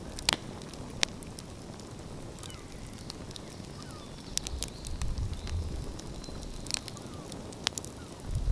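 Wood fire crackling, with sharp pops a few seconds apart over a low rumble.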